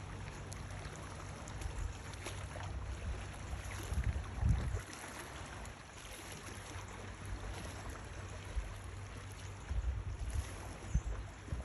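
Low, steady rumble with gusts of wind buffeting the microphone, louder about four seconds in and again near the end.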